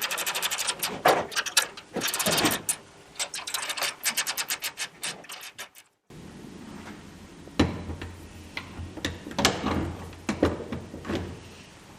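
Hand tools working on metal bolts and nuts: bursts of rapid ratchet-like clicking in the first half, then scattered sharp metallic clicks and knocks over a low hum after a brief break.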